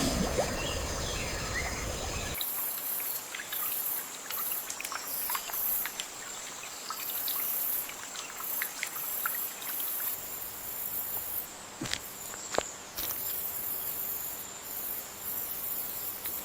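Rainforest insect chorus: very high-pitched buzzing that switches on and off in pulses over a steady high whine, with scattered short chirps and clicks. A low rumble cuts off about two seconds in.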